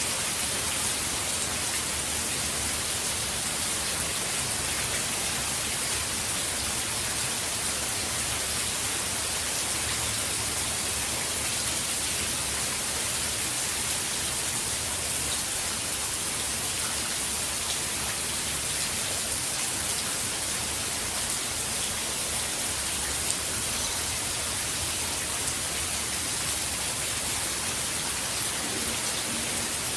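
Hurricane rain falling steadily, an even hiss with no let-up.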